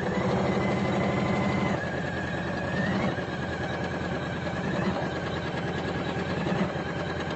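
Janome Memory Craft 550E computerized embroidery machine stitching out a design: a fast, even patter of needle strokes over a motor whine that shifts in pitch now and then.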